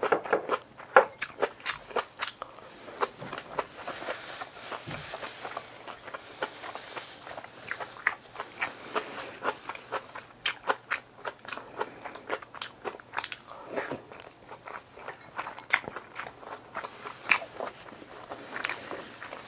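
Close-miked mukbang chewing: crisp crunching bites and wet mouth clicks come one after another, thickest near the start and again in the middle.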